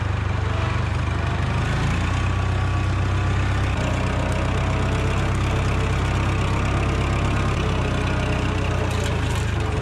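Tractor engine running steadily while scraping manure along the pen's alley; its low note shifts slightly a few times.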